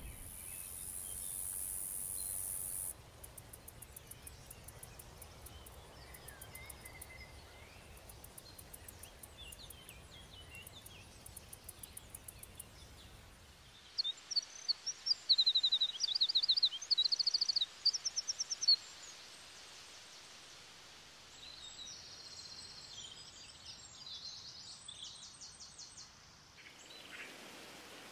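Songbirds calling over a steady background hiss, the loudest a run of quick trilled notes about halfway through, with more calls near the end. A high buzz sounds for the first few seconds and then stops.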